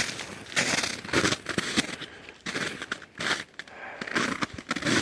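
Rustling, crunching and scraping of someone on foot pushing through dense, sharp-needled trees, branches brushing against clothing and pack in uneven bursts.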